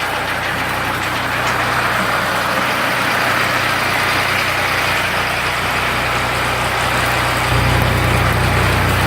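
Ford 3600 tractor engine running steadily while driving a generator, with a broad steady hiss over its low hum. The low hum grows louder about seven and a half seconds in.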